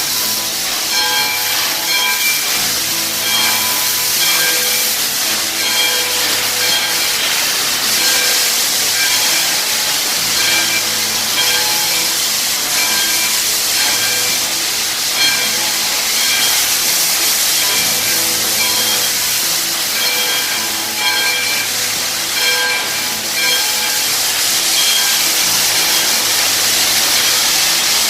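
Steady hiss of steam escaping from a steam locomotive as it is fired up and raising steam.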